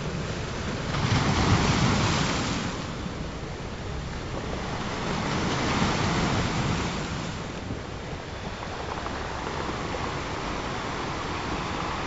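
Ocean surf: waves breaking and washing in a steady rush, swelling louder about a second in and again around six seconds.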